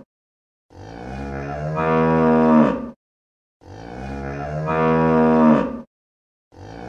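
A cow mooing: two long moos and the start of a third near the end, each one growing louder before it breaks off. The moos are the same recording repeated, with dead silence between them.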